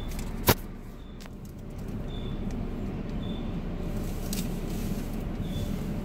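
Steady low rumble heard from inside a car entering an automatic car wash, growing slightly about two seconds in. A sharp click comes about half a second in, and faint short high beeps repeat about once a second.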